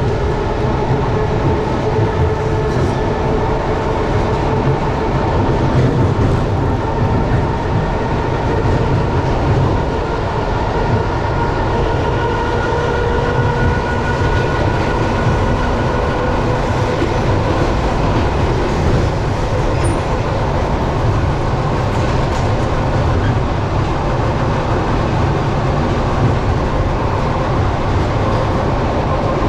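Passenger train running along the rails, heard from inside the carriage: a steady rumble of the wheels on the track with faint steady tones running above it.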